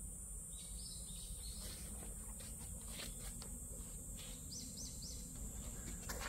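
Quiet outdoor ambience: small birds chirping a few times, including three quick chirps about halfway through, over a steady high-pitched hiss.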